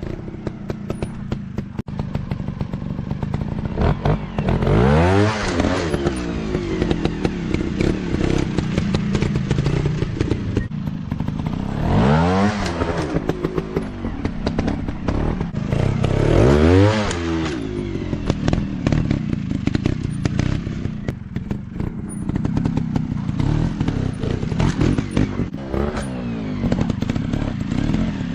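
Dirt bike engine running, its pitch climbing and falling back three times, about five, twelve and seventeen seconds in. Frequent short clicks and knocks run through it.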